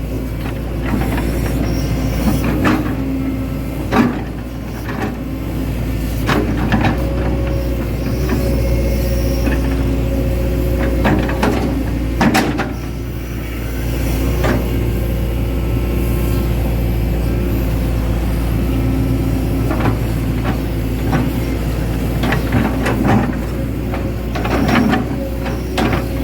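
Hitachi Zaxis 110 hydraulic excavator working: the diesel engine runs steadily under load while a hydraulic whine rises and falls. Sharp clanks and knocks come now and then, the loudest about 4 and 12 seconds in.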